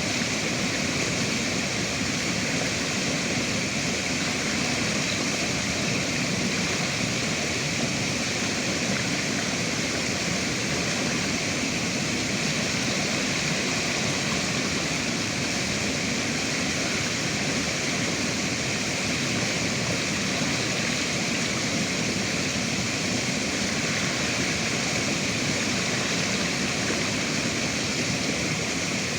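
Flowing river water, a steady rushing that does not change.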